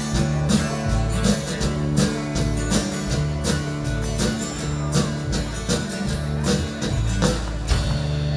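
Live country band playing an instrumental passage, guitar-led over a steady beat, ending on a final stroke near the end.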